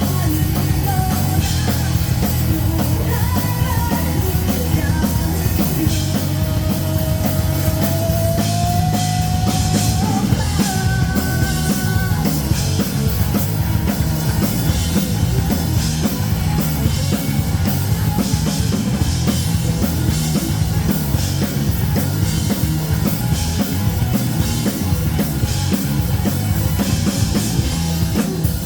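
Rock band playing live: drum kit, electric guitars and bass at full volume, with a held melody line that slides upward about six to ten seconds in.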